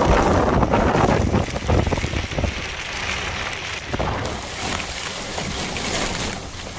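Heavy rain falling, with wind buffeting the microphone as a low rumble for the first second and a half, then easing to a steadier rain hiss.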